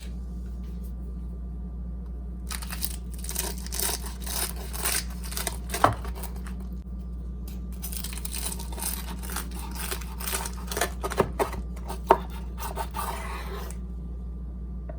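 Dense crisp crackling and crunching with a few sharper knocks, starting about two and a half seconds in and stopping shortly before the end, over a steady low hum.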